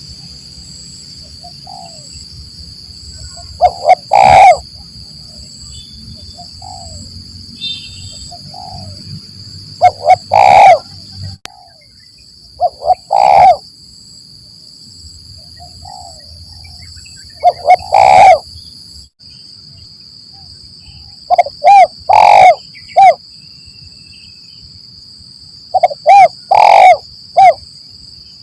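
Spotted dove (tekukur) cooing: loud phrases of two to four low coo notes repeat every few seconds, about six times, with fainter coos in between. A steady high-pitched hum runs underneath.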